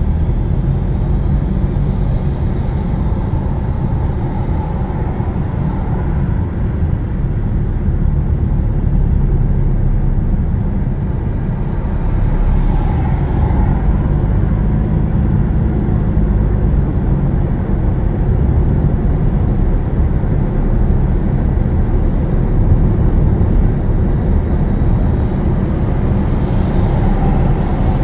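Road and engine noise of a moving car heard from inside the cabin: a steady low rumble, swelling briefly about halfway through and again near the end.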